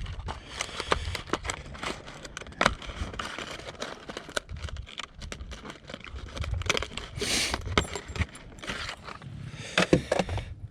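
A fishing lure being taken out of its plastic packaging by hand: crinkling and scraping of plastic with irregular clicks and knocks.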